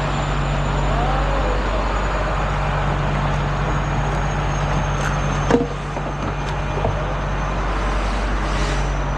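A truck engine idling steadily, with one sharp knock about five and a half seconds in and a fainter one a little later.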